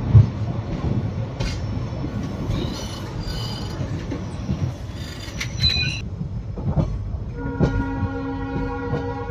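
Passenger train pulling out of the station: a steady rumble of the moving coach with wheels clicking over the rails. Near the end the locomotive's horn sounds one steady tone for a second or two.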